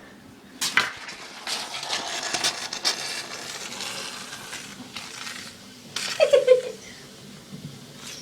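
A container of citric acid and baking soda being handled while the mix reacts: a knock, then a stretch of hissing with small clatters and clicks. About six seconds in there is a louder burst with a short falling squeak.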